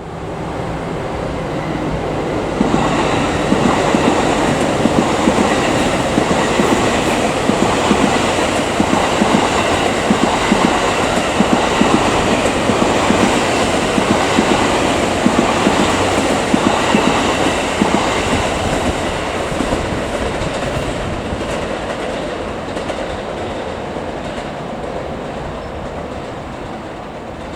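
Electric train passing close by, its wheels clattering over rail joints in a quick uneven rhythm. It builds over the first few seconds, holds loud with sharp clacks, then slowly fades toward the end.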